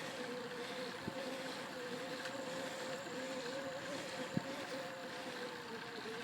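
Riding noise from a bicycle climbing a road: wind on the microphone and a steady, slightly wavering hum, with two faint clicks about one and four seconds in.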